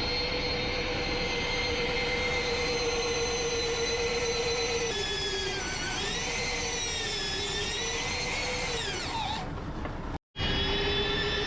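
A power tool's motor whining steadily. From about five seconds in its pitch sags and wavers, then the sound cuts out abruptly for a moment near the end and resumes.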